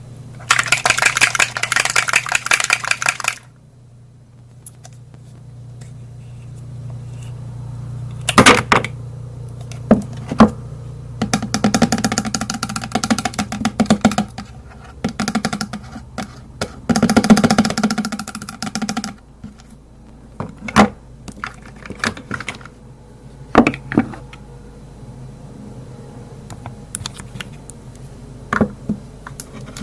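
Cosmetics handled close to the microphone: three bursts of fast rattling ticks and scattered sharp clicks, like cases and lids opening and closing, over a low steady hum.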